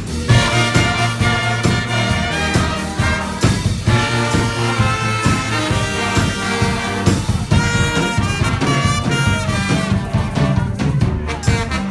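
A brass band playing an upbeat swing-style tune live, trumpets and trombones over a strong bass line, with a steady beat.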